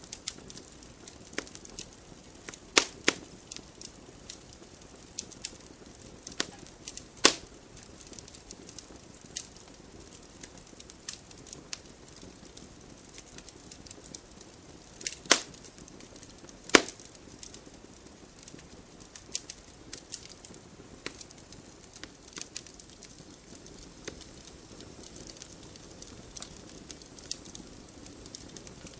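Wood fire burning in a fireplace, crackling with many small snaps over a low hiss, and a few louder pops.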